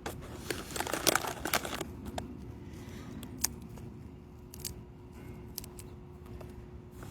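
Crisp plastic potato chip bag crinkling as a hand rummages in it: a dense run of crackles for the first two seconds, then scattered single crinkles and clicks.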